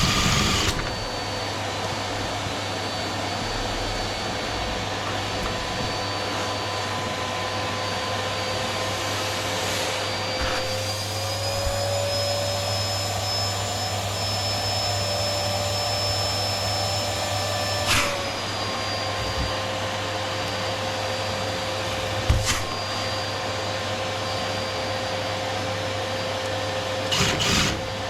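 Vacuum cleaner running with a steady motor whine. Its pitch rises a little about ten seconds in and drops back with a knock about eighteen seconds in, and a few more knocks and clatters follow near the end.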